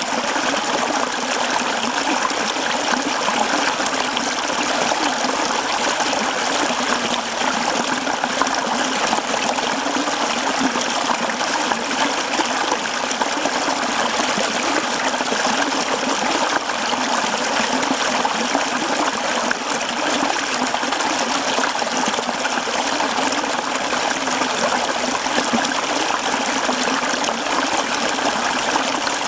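Mountain stream running over rocks, a steady babbling and gurgling rush of water.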